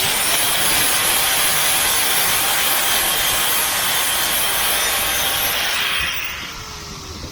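Aerosol spray paint can spraying in one long steady hiss that starts abruptly and dies away after about six seconds.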